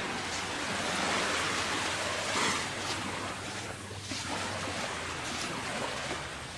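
Small Gulf of Mexico waves washing onto the sand, one swelling and breaking loudest about two and a half seconds in, then easing back to a steady wash.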